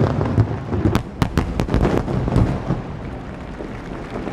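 Aerial firework shells bursting in a rapid volley, a dense run of sharp booms over the first two and a half seconds, then a fainter noisy tail as the bursts die away.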